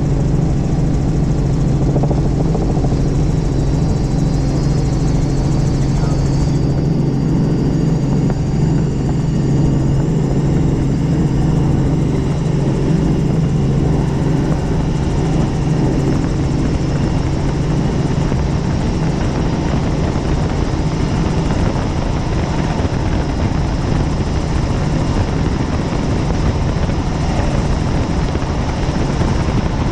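Helicopter running steadily in flight, a loud continuous hum of engine and rotor with a faint high whine above it. About twelve seconds in, the steady low hum gives way to a rougher, even rumble.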